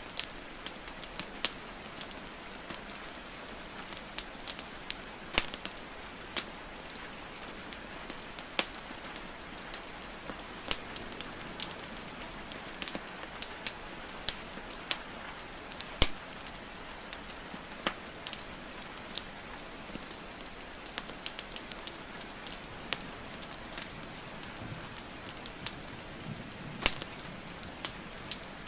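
Wood fire crackling and popping with sharp, irregular snaps over a steady hiss of rain falling.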